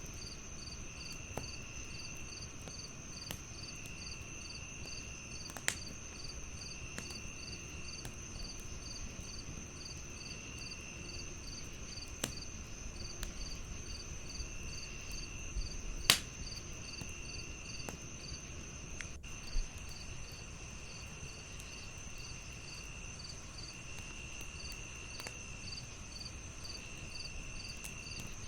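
Crickets chirping steadily: a continuous high trill, a second cricket chirping about twice a second, and a lower trill in phrases with short gaps. Underneath, a wood fire crackles with occasional sharp pops, the loudest about 16 seconds in.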